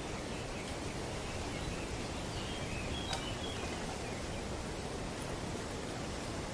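Steady rustle of wind through tree leaves, with a few short bird chirps about halfway through.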